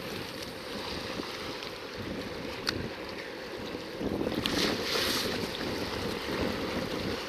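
Sea washing against shoreline rocks, with wind buffeting the microphone. The water swells louder about four seconds in, and there is a single sharp click near the middle.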